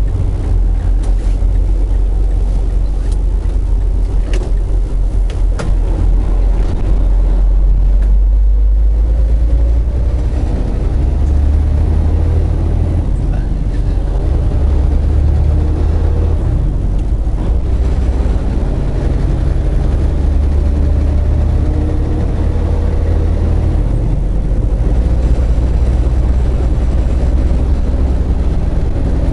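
Semi-truck engine and drivetrain heard from inside the cab while driving: a loud, low drone that rises and falls in pitch as the revs change, with a few sharp clicks or rattles in the first several seconds.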